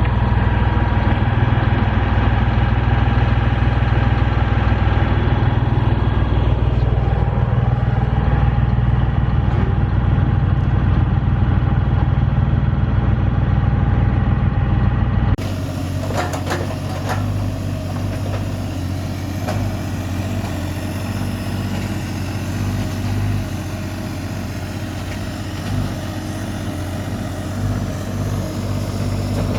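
A heavy engine running steadily at a constant speed. About halfway through, the sound changes abruptly to a quieter engine running, with a few knocks soon after.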